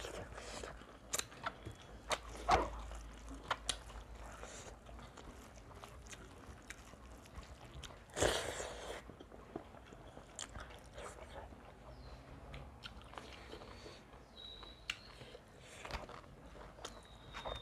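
Close-up eating sounds of two people eating rice and curry by hand: chewing, lip smacks and scattered small clicks, with one louder, longer mouthful about eight seconds in.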